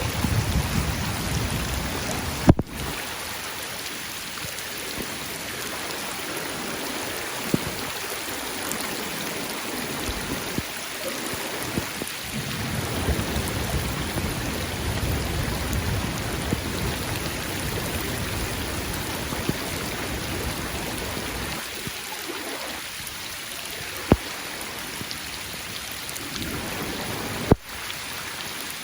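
Thunderstorm: steady heavy rain, with low rolling thunder swelling and fading several times, strongest at the start and again in the middle. A few sharp taps stand out, the loudest about two and a half seconds in and near the end.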